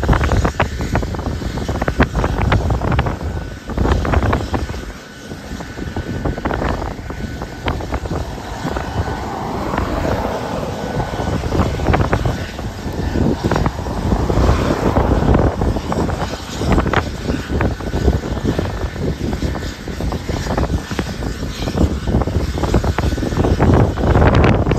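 Medical helicopter's engine and rotor running at a distance, with a faint steady whine, under heavy wind buffeting on the microphone.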